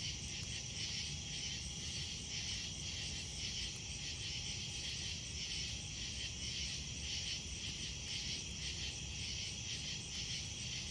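Night insects chirping in a steady chorus, pulsing about three times a second, over a low steady rumble.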